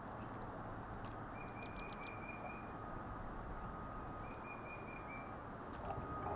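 A bird calling twice, each time a quick series of short notes lasting about a second, over a steady low outdoor rumble.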